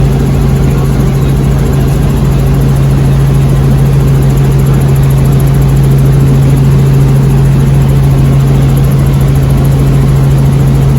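Steady, loud drone of a helicopter's engine and rotor, heard from inside the cabin, with a constant low hum throughout.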